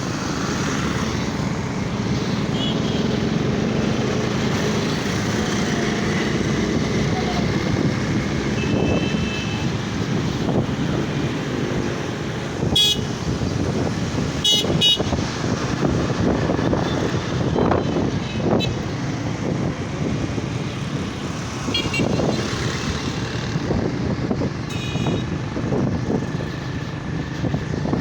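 Steady engine, tyre and wind noise of riding a motorcycle through busy city traffic, with other vehicles' horns giving short beeps several times.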